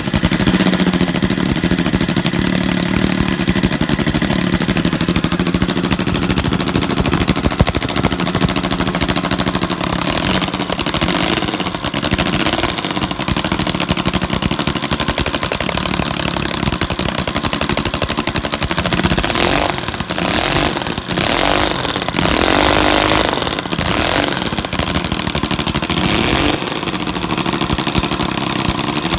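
Home-built three-cylinder radial engine running without an exhaust fitted, a loud, fast, unmuffled firing beat. Its speed changes for a few seconds about two-thirds of the way in. It is not yet fully tuned.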